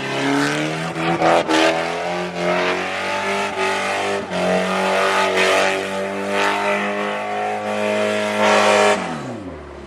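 Car engine held at high revs with tyres squealing and skidding, as in a donut or burnout, then the revs fall away sharply near the end.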